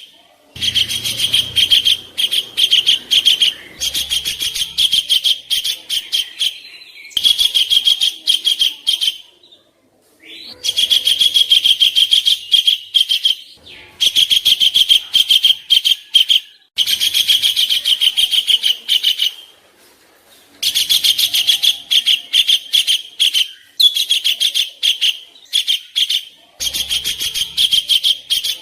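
Songbird singing harsh, rapid chattering phrases: fast runs of rasping notes, each phrase lasting a couple of seconds, with short pauses between them.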